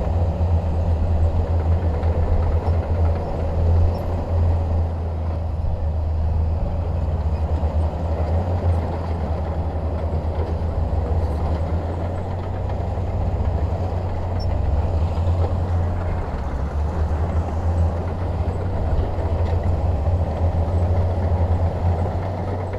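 Bulldozer diesel engine running steadily with a continuous low rumble and no breaks.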